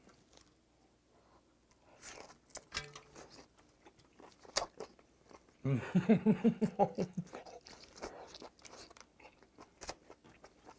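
A person chewing and biting a piece of boiled octopus, close to the microphone, with scattered sharp mouth clicks from about two seconds in. Around the middle there is a louder, pulsing hummed 'mmm' lasting about a second and a half.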